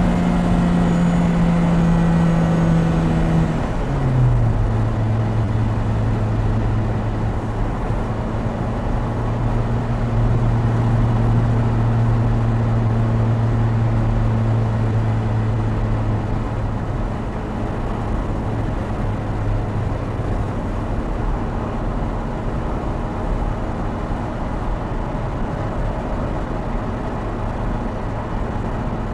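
Opel Speedster Turbo's mid-mounted turbocharged 2.0-litre four-cylinder engine running at a steady pitch, with wind and tyre noise in the open cockpit. About four seconds in, the engine note drops sharply at a gear change, then holds a steady lower note while cruising.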